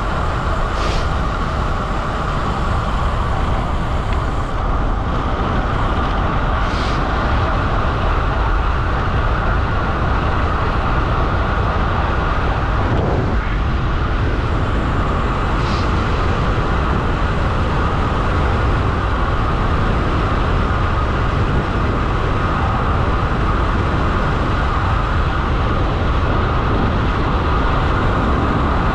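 Steady wind rush over the microphone and tyre noise on tarmac from a road bike descending at high speed, around 80 km/h.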